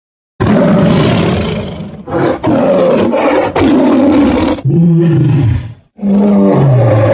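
Tiger roaring loudly in a series of roars, the last two dropping in pitch as they end.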